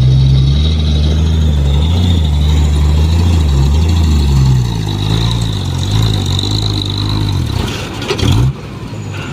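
Fuso dump truck's diesel engine labouring under load, its revs rising and falling repeatedly, with a steady high whine above it. The engine note dips and drops off sharply near the end.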